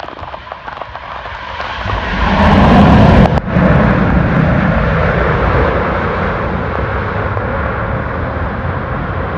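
Jet airliner passing close by. Its engine roar swells over a couple of seconds to its loudest about three seconds in, dips for an instant, then stays loud and steady. Light taps of rain are heard before the roar builds.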